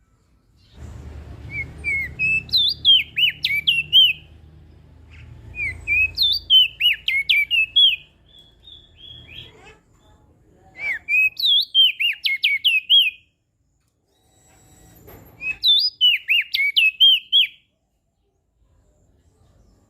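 Crested white-eye (opior jambul) singing four quick phrases, each a rapid run of high, sharply bending whistled notes, with short pauses between them. A low rumble lies under the first two phrases.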